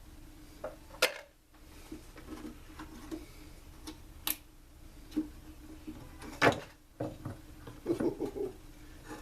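Scattered clicks and knocks of hand tools and small parts being handled on a workbench as the carburetor is taken off a Stihl SR 420 backpack blower, over a faint steady hum. The sharpest knocks come about a second in and about six and a half seconds in, with a quick run of clatter near the end.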